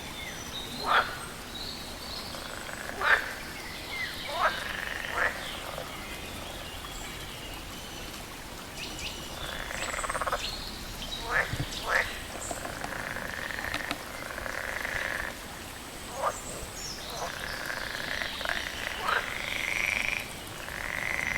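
Frogs croaking in a chorus, with loud, sharp calls that sweep down in pitch every second or few seconds over a steadier background of calling.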